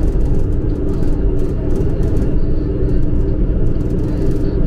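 MRT-3 light-rail train running, heard from inside the carriage: a steady, loud rumble with an even hum under it and light rattles.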